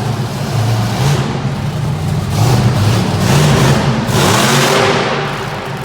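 Monster truck engine revving hard, rising and falling in pitch as the throttle opens and closes, with a louder surge of noise about halfway through.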